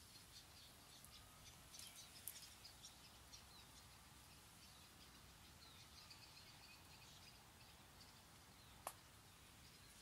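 Very faint outdoor ambience of small birds chirping, with a cluster of quick chirps about two seconds in. A single sharp click comes near the end.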